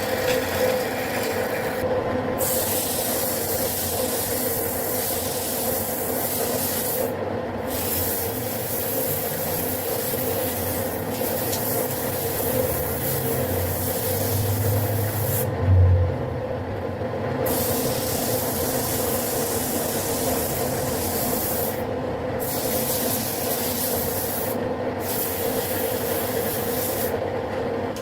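Wood lathe running with a steady motor hum while the spinning wooden blank is worked, a continuous hiss of contact on the wood that breaks off briefly several times. A single low thump about sixteen seconds in.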